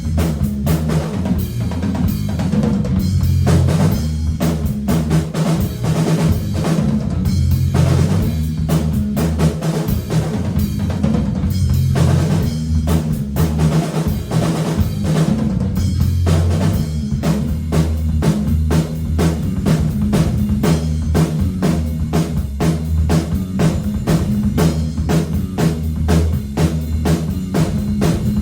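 Drum kit and bass guitar playing a hard-rock groove together, with no other instruments: a fast, steady run of snare and bass-drum hits over bass notes that step between pitches.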